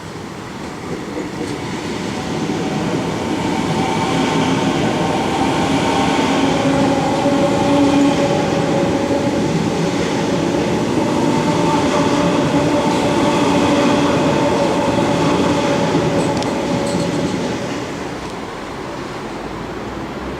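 Sydney electric suburban train running through the station without stopping: rail and wheel noise with steady tones. It builds over the first few seconds, holds, and eases off near the end.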